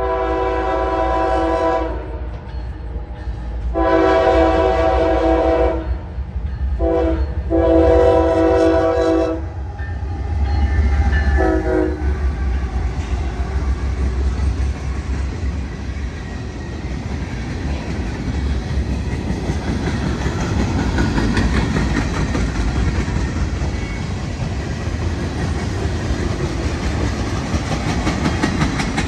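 Locomotive horn sounding the grade-crossing pattern: long, long, short, long, with a brief extra toot a few seconds later, over the low rumble of the train. Then the train rolls past, wheels rattling steadily over the rails.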